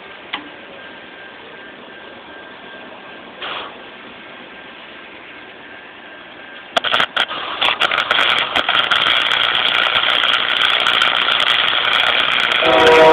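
Chicago Electric 90 amp flux-core wire welder. Quiet at first, then about seven seconds in the arc strikes and runs on with a loud, steady crackling sizzle full of sharp irregular pops as the bead is laid.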